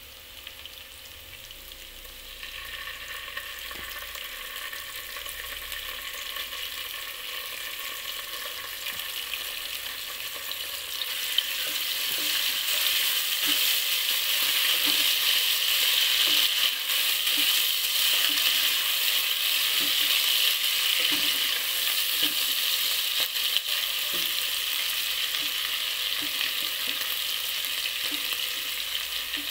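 Diced ingredients sizzling in hot oil in a pot as they are stirred with a plastic spatula, with soft knocks as it strikes the pan. The sizzle grows steadily louder, most of all about a third of the way in.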